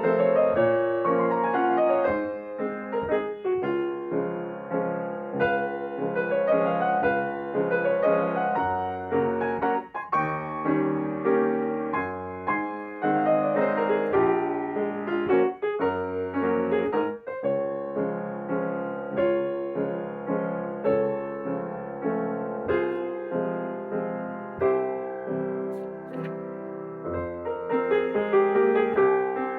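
Solo piano playing a slow, gentle, ambient original piece, with flowing arpeggio-like figures and sustained notes.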